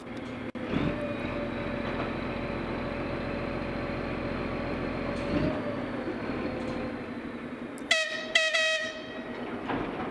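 TGM4 shunting diesel locomotive running steadily, then giving a few short, high horn toots close together near the end.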